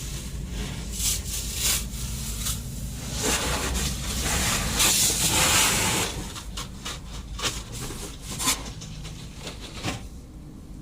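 High-pressure water spray hissing and spattering against a car's body during a car wash, swelling loudest about four to six seconds in, over a low machine rumble, then dying away near the end.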